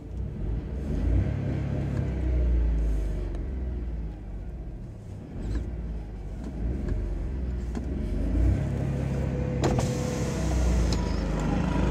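The 2020 Volkswagen Polo's 1.0-litre naturally aspirated three-cylinder petrol engine is heard from inside the cabin, revving up in pitch. It eases off about four seconds in, then climbs again. There is a single sharp click near the end.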